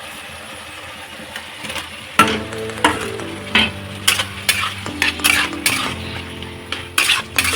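A spatula stirring dry potato-and-brinjal sabzi in a frying pan over a light sizzle. From about two seconds in, the spatula clacks and scrapes against the pan about every half second.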